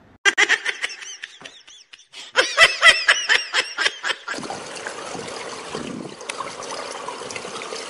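Quick bursts of high-pitched laughter for about four seconds, then a steady wash of pool water noise.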